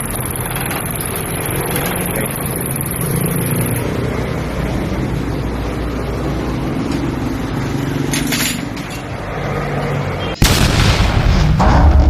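Ford Ranger 2.2L diesel engine running steadily. About ten seconds in it cuts off abruptly into louder music.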